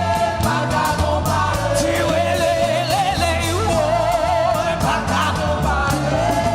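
Gospel worship song: a lead singer holding notes with vibrato over a band with bass and drums.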